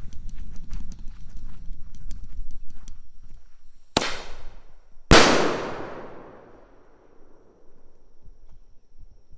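Single-shot salute firework fired from a tube: a sharp crack about four seconds in as the shell is launched, then about a second later a loud bang as the salute bursts, echoing away over a couple of seconds. Before the launch there are small clicks and shuffling.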